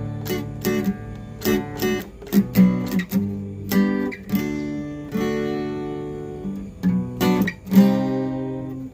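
Solo guitar playing an instrumental intro: picked notes and strummed chords left to ring, with a chord held for about two seconds midway.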